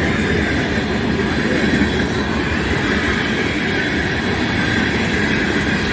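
Freight train cars rolling past on the rails, a steady loud rumble and rattle of wheels.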